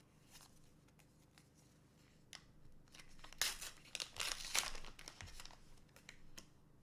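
Foil booster pack wrapper crinkling and tearing as it is opened by hand, loudest and busiest between about three and five seconds in, with scattered light clicks of handling before and after.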